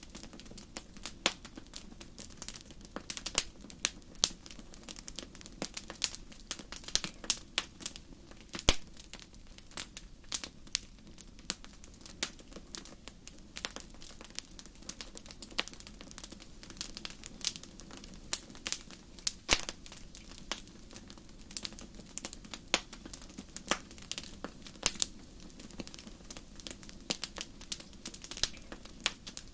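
Fire crackling: irregular sharp pops and snaps, several a second, over a faint steady low rumble.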